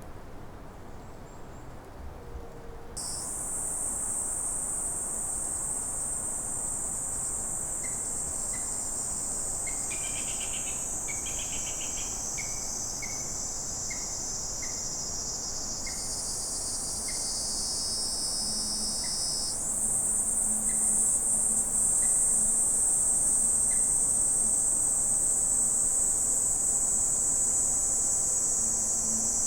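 Insects in chorus: a steady, high-pitched buzzing drone that sets in about three seconds in and grows louder later on. Through the middle, a series of short high notes sounds over it, coming further and further apart.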